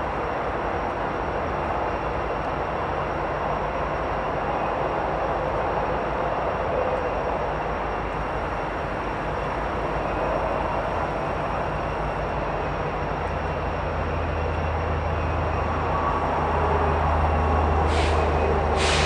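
Train running by with a steady rumble of rolling railcars; a low locomotive engine drone joins about two-thirds of the way through and grows louder, with a couple of short rushing bursts near the end.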